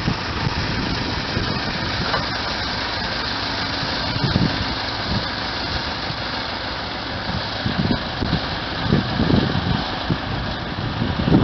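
An engine running steadily, with a few low swells of rumble.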